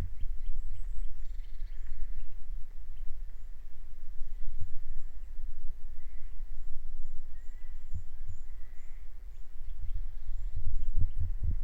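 Outdoor ambience: a steady low rumble with a few dull thuds, thickening near the end, and faint high bird chirps.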